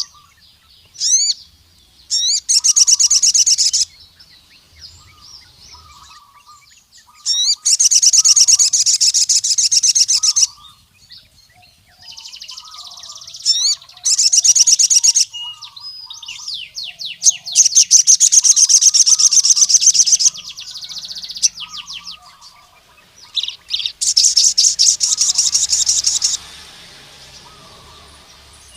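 A sogon (crimson sunbird) singing. Its song comes in five loud bursts of very fast, high trilling, each one to three seconds long and led in by a few quick rising chirps. Fainter short chirps from other birds sound between the bursts.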